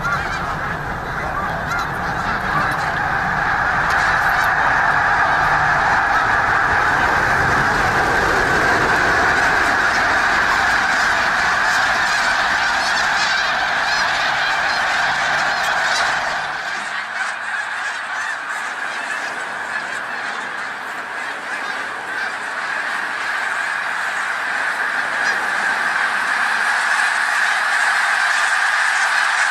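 A large flock of geese honking, a dense din of many overlapping calls. A low rumble underneath stops suddenly about halfway through.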